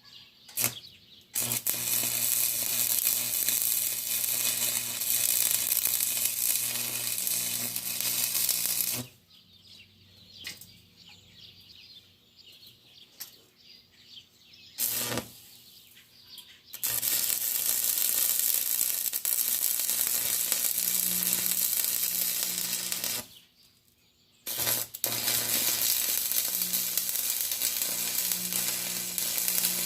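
Stick (arc) welder burning a rod into thin steel: a steady crackling sizzle over a low electrical hum. It comes in three long runs, with pauses between them and a couple of brief arc strikes.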